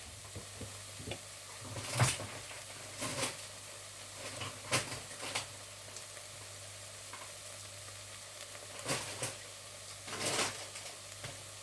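Chicken sizzling in a frying pan, a steady hiss, with a utensil knocking and scraping against the pan a few times as it is stirred.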